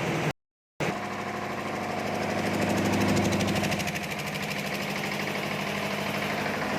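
Engine of a mechanical tower hoist running steadily with a fast, even pulsing. The sound cuts out completely for about half a second shortly after the start.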